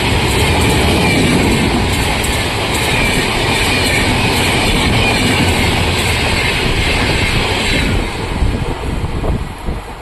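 Superfast express passenger train passing at high speed close by, a loud steady rush of wheels and coaches that drops off suddenly about eight seconds in, then rattles unevenly and fades.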